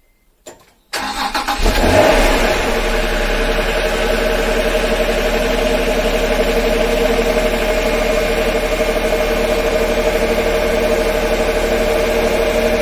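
Honda NSX V6 engine cold-started: a small click, a moment of starter cranking, then it catches, flares up and settles into a steady cold idle.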